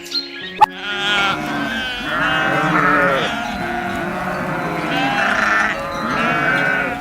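Several sheep bleating in overlapping, wavering calls, starting about a second in after a short sharp click.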